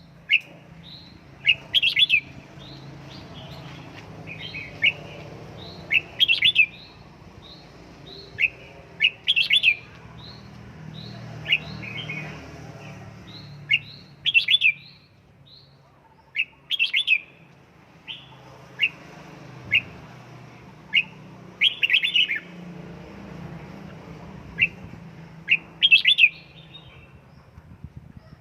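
Red-whiskered bulbul singing: short, loud chirping phrases repeated every two or three seconds, with a faint low hum underneath.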